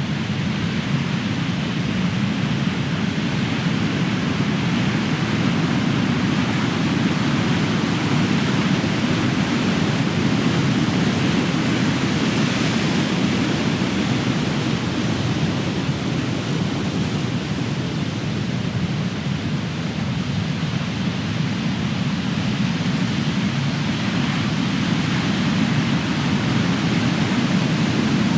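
Big ocean waves crashing and surf washing ashore: a continuous rush of noise that swells and eases slowly as the waves break.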